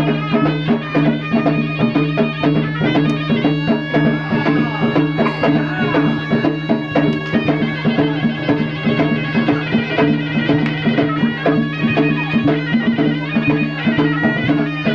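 Gendang silat ensemble playing: a reedy serunai melody over quick hand-struck gendang drum strokes, with a steady low tone beneath.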